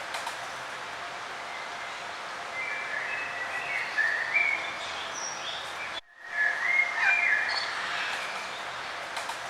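Songbirds chirping and warbling in short phrases over a steady outdoor background hiss. The sound cuts out for a moment about six seconds in, then the birdsong resumes.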